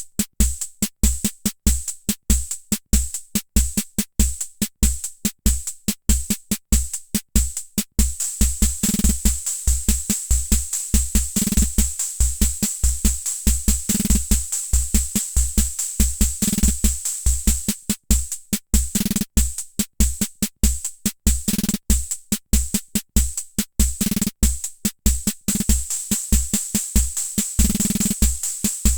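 Hammond Auto-Vari 64 analog rhythm machine playing a preset beat: bass drum thumps, snare, and hi-hat or cymbal ticks in a steady pattern. About eight seconds in the pattern becomes busier, with a near-continuous high shimmer and pitched drum hits, and it changes again around eighteen seconds as presets or variations are stepped through.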